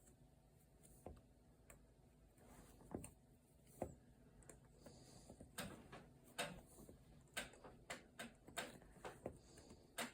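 Faint, irregular clicks and light taps of loops being lifted off the pegs of a potholder weaving loom during a bind-off, sparse at first and coming more often from about halfway through.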